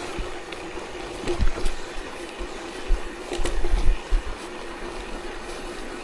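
Rolling ride noise on a gravel forest road: a steady hum with low bumps and rattling that come in clusters about a second and a half in and again around three to four seconds in.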